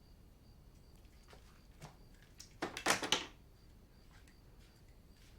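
Quiet room tone with a faint high chirp repeating at an even pace, and about three seconds in a brief cluster of knocks or clatter.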